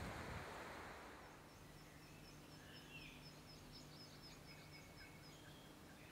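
Faint birdsong: a rapid run of short high chirps, about four a second for some four seconds, with a few other bird calls. Wind on the microphone fades away in the first second.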